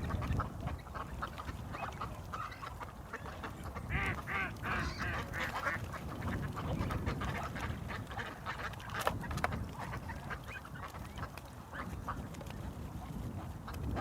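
Ducks quacking over and over, a flock of short calls that bunch together about four to six seconds in, over a steady low rumble. A sharp click sounds about nine seconds in.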